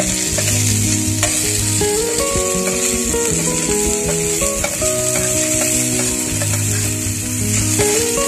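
Food sizzling as it fries in oil in a metal pan, with a spoon stirring and scraping against the pan now and then. Background music plays throughout.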